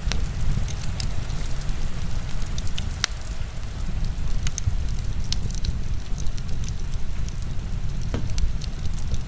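Heavy rain falling steadily, mixed with a wood fire crackling: scattered sharp pops and snaps, the loudest about three seconds in.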